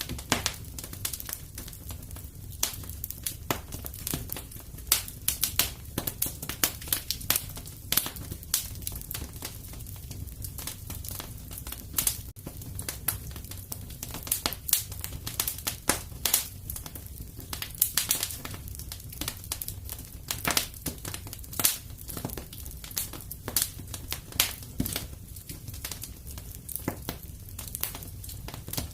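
Fireplace wood fire crackling and popping: many sharp, irregular pops over a steady low rumble of the burning fire.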